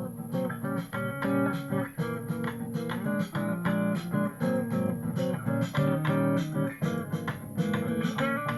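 Guitar music without vocals: plucked and strummed chords in a quick, steady rhythm.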